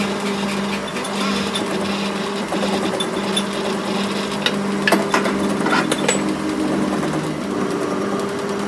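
A small machine motor starts and runs at a steady pitch, with a few sharp clicks along the way.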